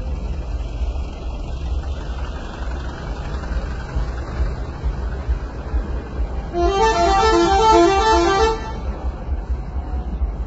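A truck's multi-tone 'telolet' horn plays a quick run of short notes, stepping between pitches, for about two seconds starting past halfway. A steady low rumble runs under it.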